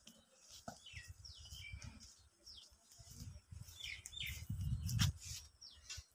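Small birds chirping over and over in short, quick falling notes. Under them runs a low, uneven rumble that swells near the end, with a sharp click about five seconds in.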